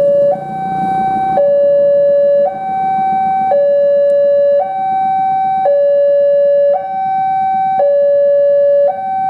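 Electronic two-tone warning alarm of a railway level crossing, alternating steadily between a low and a higher tone about once a second: the signal that a train is approaching.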